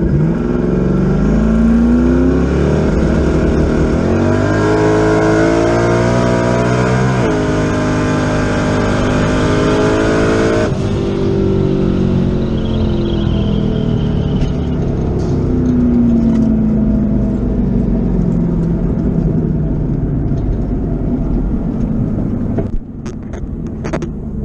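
Twin-turbo Ford Coyote V8 on a drag pass: it revs up hard from the launch, drops in pitch at the Powerglide's one-to-two shift about seven seconds in, and climbs again. The throttle is cut sharply about eleven seconds in, and the engine winds down as the car coasts.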